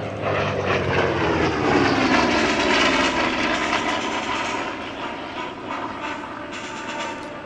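Vought F4U Corsair's radial engine and propeller on a fast pass, its pitch sliding down as it goes by, loudest a couple of seconds in and then fading away.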